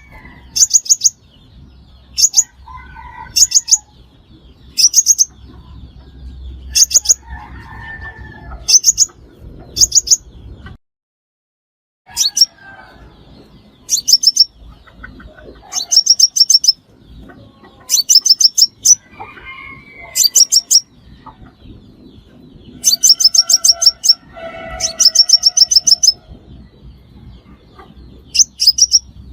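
Crimson sunbird lure calls: short bursts of rapid, very high-pitched chirps repeating about once a second. There is a sudden dead-silent break of about a second, roughly eleven seconds in.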